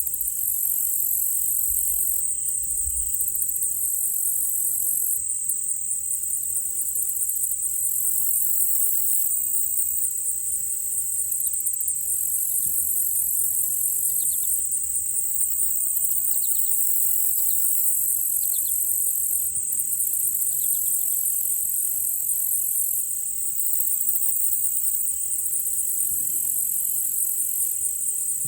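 Insect chorus of crickets or katydids, a steady high-pitched pulsing trill. A few faint short bird chirps come in around the middle.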